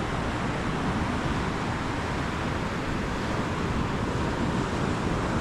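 Ocean surf breaking on the beach, a steady rush with no pauses, with some wind rumble on the microphone underneath.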